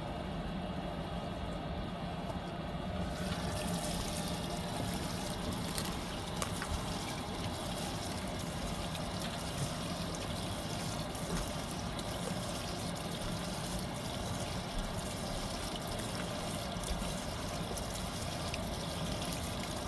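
Fisher & Paykel MW059 washing machine filling for its final rinse: water pouring into the tub, its hiss starting about three seconds in, over a steady low hum.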